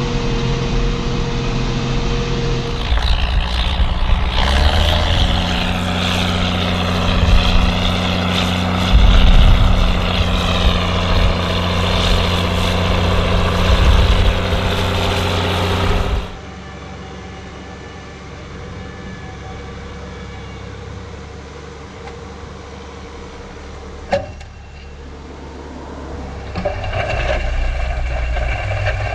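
Ford TW tractor's six-cylinder diesel engine running steadily under load while pulling a plough, with a rushing hiss over it for much of the first half. About 16 seconds in it drops suddenly to a quieter, steadier engine sound, with a single sharp knock a little later, and it grows louder again near the end.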